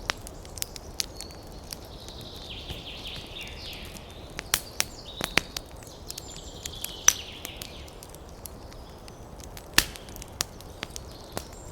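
Wood fire crackling in a fireplace: irregular sharp pops and snaps over a low, steady rush of flames. A thin hiss joins in about two seconds in and dies away a few seconds later.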